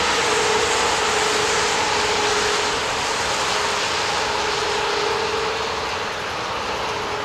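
A car driving along a snowy interstate: steady road and tyre noise with a faint wavering hum, heard from inside the car. It eases off slightly near the end.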